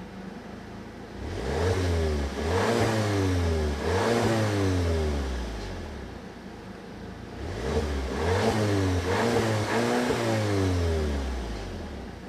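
VW Tiguan 5N facelift's 2.0-litre 132 kW turbocharged petrol four-cylinder revving through a FOX sport exhaust. It revs in two rounds, the first about a second in and the second about seven seconds in. Each round climbs, blips a few times and then drops back to a low idle.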